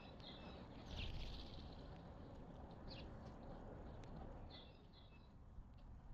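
Wild songbirds chirping at a feeding spot: short high chirps at the start, about a second in, about three seconds in and a pair around four and a half to five seconds, over a faint steady low outdoor rumble.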